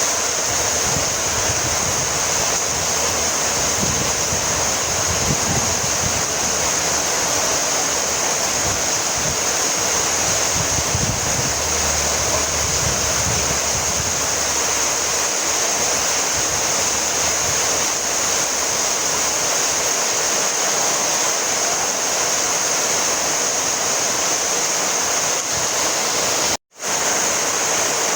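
Heavy rain falling steadily: an even, unbroken hiss that cuts out for a split second near the end.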